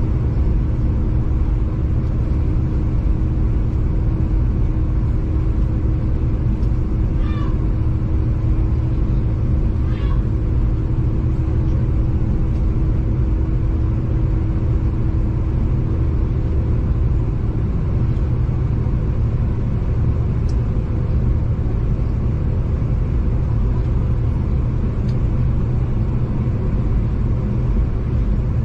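A V/Line passenger train running, heard from inside the carriage as a steady low rumble with a steady hum that fades out about two-thirds of the way through. Two brief high squeaks come about 7 and 10 seconds in.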